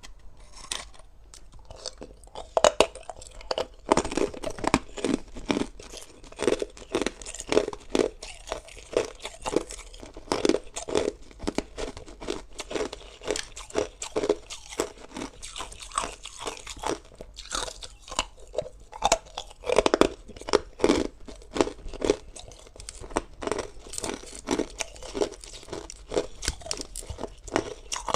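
A person biting and chewing hard ice, recorded close to the mouth: loud, irregular crunches several times a second as the ice cracks between the teeth.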